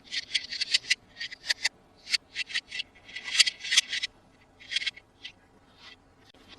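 Toy packaging being handled at close range: a quick, irregular run of short crinkling, rustling scrapes. They are densest in the first four seconds and thin out to a few soft scrapes near the end.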